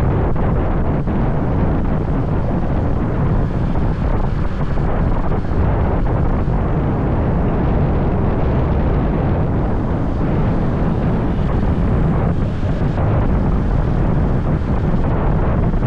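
Steady, loud low rumble of wind buffeting the microphone on a moving motorbike, mixed with the ride's road noise.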